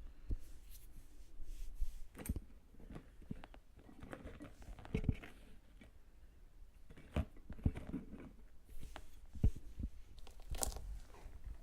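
Tweezers working wet, sticky earwax out of a silicone ear model close to the microphone: irregular small clicks and moist crackles.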